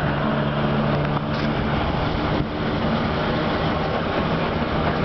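Passenger train in motion heard from an open carriage window: steady rushing noise of the running train and passing air, with a low steady hum underneath.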